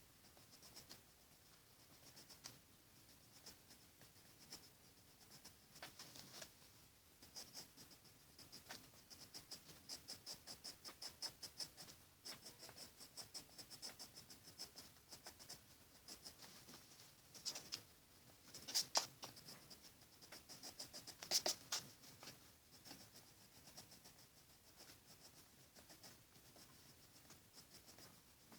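Pencil scratching on paper in runs of quick back-and-forth strokes, faint, with a couple of harder strokes about two-thirds of the way through.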